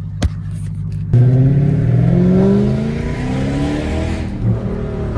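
Lexus GS430's 4.3-litre V8 with no catalytic converters, accelerating hard from about a second in: the exhaust note climbs in pitch, drops briefly at a gear change, climbs again, then eases off near the end.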